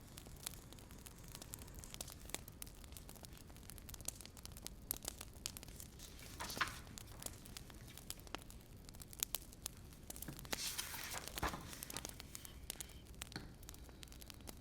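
Wood fire crackling: scattered sharp pops and snaps, with a brief hissing flare about six and a half seconds in and a longer one near eleven seconds.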